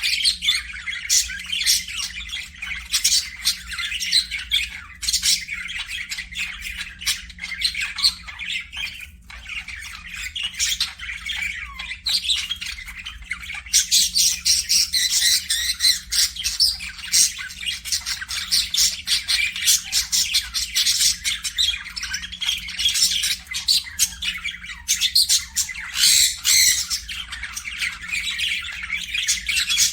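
Parakeets chattering nonstop, a dense mix of quick chirps and harsh squawks, getting busier about halfway through.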